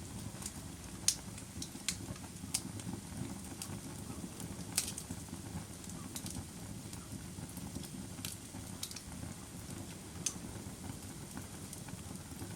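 Wood fire burning: a steady low rush with irregular sharp crackles and pops, roughly one a second.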